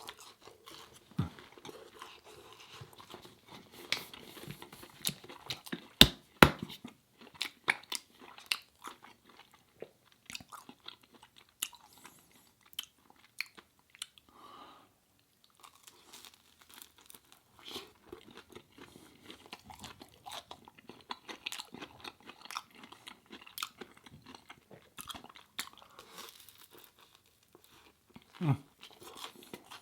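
Close-miked eating sounds: biting and chewing with wet, crunchy mouth noises and many sharp clicks, loudest in two sharp snaps about six seconds in.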